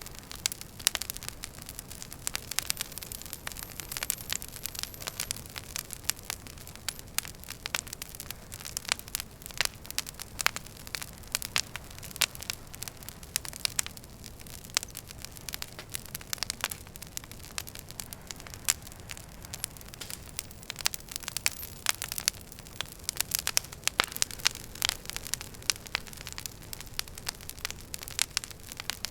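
Wood fire burning in a fireplace, crackling with many quick, irregular pops and snaps over a steady low hiss.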